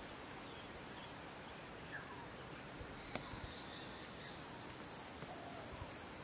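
Steady hiss of open-air ambience with a few faint bird calls, and one sharp click about three seconds in.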